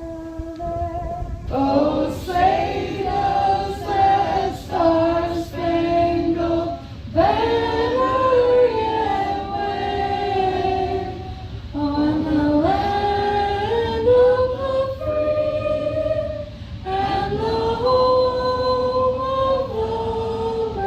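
Female voices singing together in held, stepping notes, phrase after phrase, over a steady low hum.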